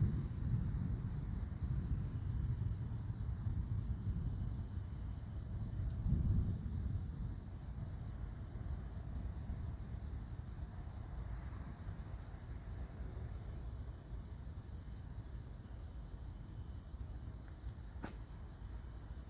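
Steady, pulsing chorus of crickets in the night. Under it, a low rumble swells about six seconds in and then fades, and there is a single sharp click near the end.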